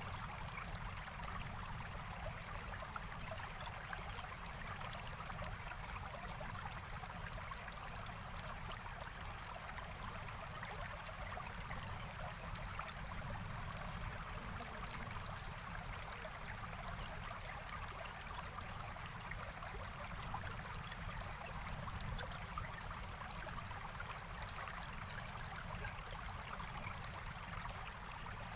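Forest stream flowing steadily: an even, unbroken wash of running water.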